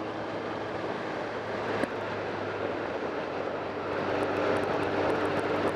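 BMW K1200R's inline-four engine running under way with wind rush, a steady drone that grows a little louder in the second half.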